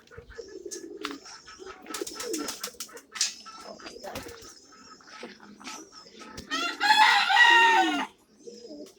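Pigeons cooing softly, with a few scattered clicks. About six and a half seconds in, a loud crow of about a second and a half from a rooster.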